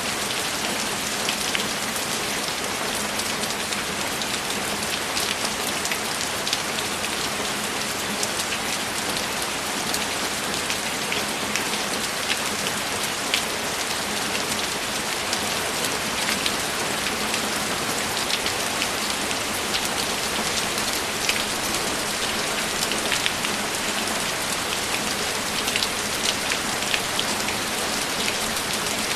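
Steady, even rainfall, with many sharp ticks of individual drops standing out against the dense hiss.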